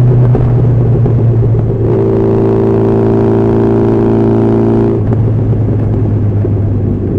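Honda CB1300SF's inline-four engine running at steady highway cruise, mixed with wind and road noise. About two seconds in its hum settles into an even drone, and it turns rougher again about five seconds in.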